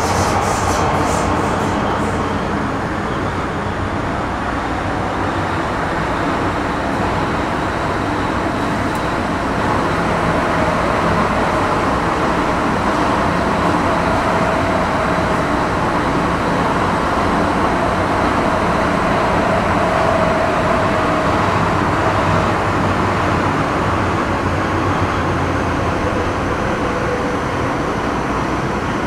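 Onboard running noise of an MTR Metro Cammell M-Train electric multiple unit with GEC GTO chopper traction, travelling between stations: a steady rumble of wheels and car body. A few sharp clicks come in the first couple of seconds, and a faint motor whine wavers in pitch through the middle.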